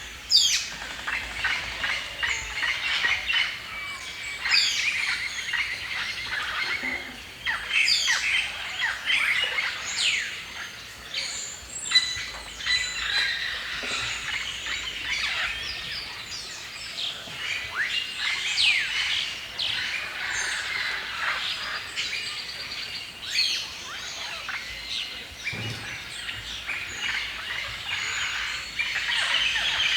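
Several songbirds calling and singing at once in a forest chorus: many short, quick chirps and sweeping whistles overlapping throughout.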